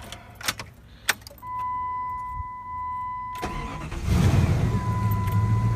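A few clicks, then a steady high tone sounds. About three and a half seconds in, the 1997 Jeep Grand Cherokee's starter cranks briefly and the engine catches and settles into a steady idle, a sign that the alarm's starter cut-out has been bypassed.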